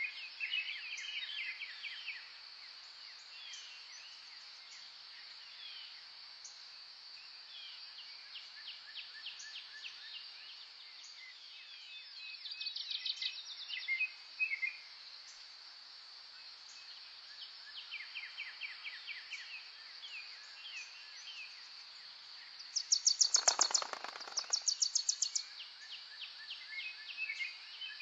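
Several songbirds singing short trills and chirps over a steady high insect drone. The loudest is a rapid run of sharp repeated notes about 23 seconds in.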